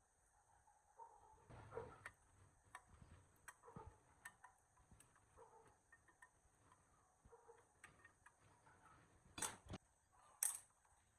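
Faint, irregular clicks and taps, with two sharper knocks about a second apart near the end.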